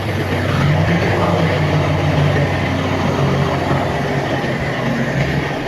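Heavy diesel earthmoving machinery working: a steady engine drone under a dense rattling clatter.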